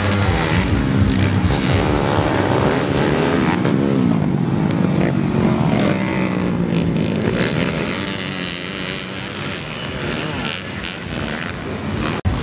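Several motocross bikes racing on a grass track, their engines revving up and down through the gears as they pass. The sound drops out for an instant near the end.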